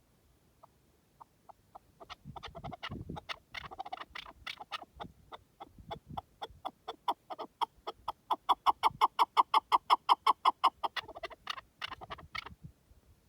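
Chukar partridge calling: a series of clucking notes that starts sparse, speeds up into a fast, even run of about five notes a second, and breaks off shortly before the end.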